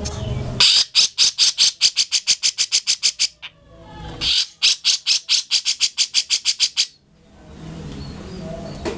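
Grey-cheeked bulbul (cucak jenggot) calling in two long runs of rapid, harsh repeated notes, about seven or eight a second. Each run lasts roughly three seconds, with a short break between them. Near the end the bird falls to quieter, looser chatter.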